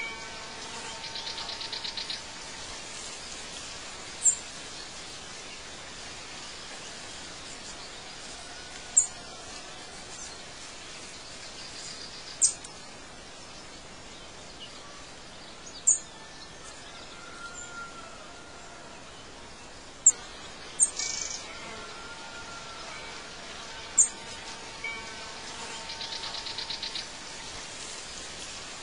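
Backyard birdsong ambience: a bird gives short, sharp, high chirps every three or four seconds over a steady background hiss. A buzzy trill comes near the start and again near the end.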